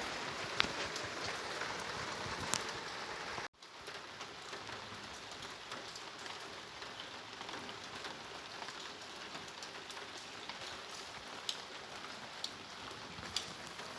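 Heavy rain falling: a steady hiss with scattered sharp drip ticks. It cuts out briefly about three and a half seconds in, then goes on a little quieter.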